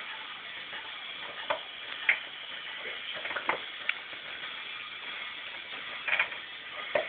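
A handful of short, scattered metallic clicks and clinks from hand tools being worked on the car, over a steady hiss.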